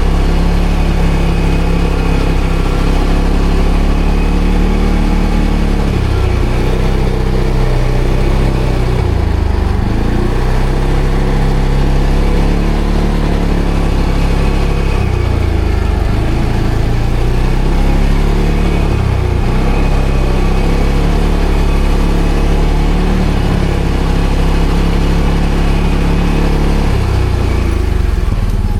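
ATV engine running under changing throttle, its pitch dipping and rising again and again, steadier at the start.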